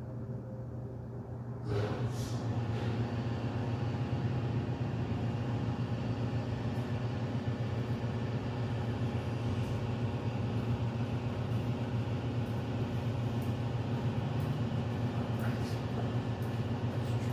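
Air compressor running steadily to build pressure that is still too low for seating the tire bead. About two seconds in, a louder rushing noise joins the hum and carries on.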